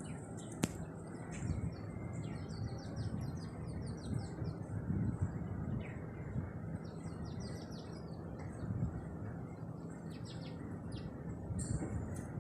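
Small birds chirping repeatedly over a steady low outdoor rumble, with a single sharp click just after the start.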